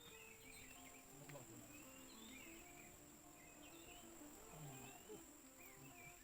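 Faint outdoor ambience: small birds chirping in short, quick phrases every second or so, over a steady high insect drone.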